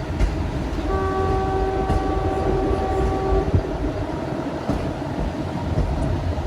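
Train horn sounding one steady held note for about two and a half seconds over the low rumble of a moving train.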